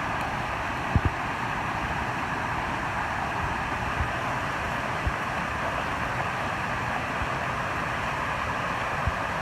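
Steady rushing noise with a few soft low thumps.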